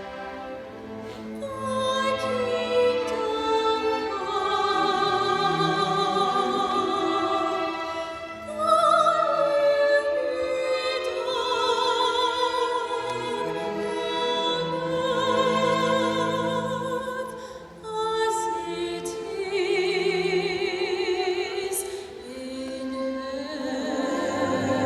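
A female soloist singing a classical sacred song with strong vibrato on long held notes, over instrumental accompaniment.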